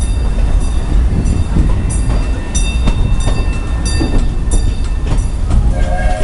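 Passenger car of the Cedar Point & Lake Erie Railroad's narrow-gauge steam train running along the track: a steady low rumble with regular clicks, about one and a half a second. A short pitched sound comes in near the end.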